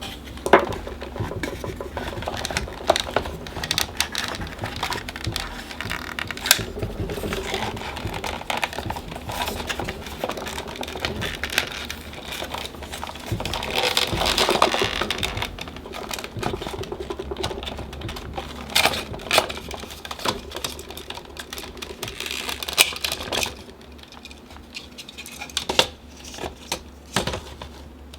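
Small clicks, taps and rattles of plastic parts and screws being handled while a Dyson AM06 fan is taken apart by hand. A denser scratchy stretch comes about halfway through, over a steady low hum.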